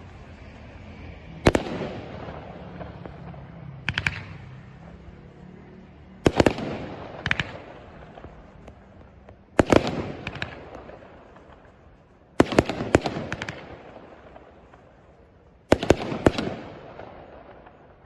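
Aerial fireworks bursting overhead: sharp bangs every two to three seconds, often two or three in quick succession, each trailing off in a crackle that fades away.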